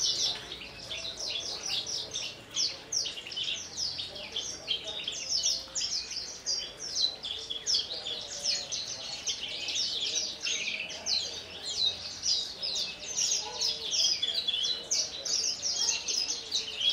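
Javan bush lark (branjangan) singing a fast, unbroken stream of varied high chirps and trills.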